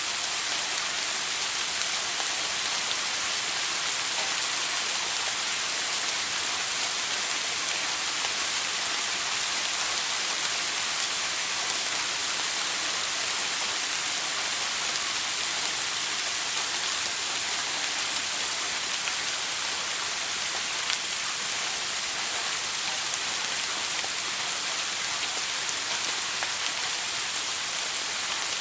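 Shower water spraying and pattering steadily, an even high hiss of falling water.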